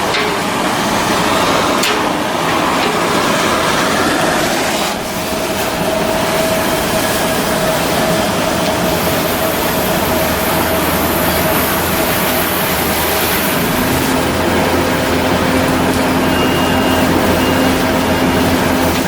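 Loud, steady machinery noise from shipbuilding work, with steady hums building up partway through.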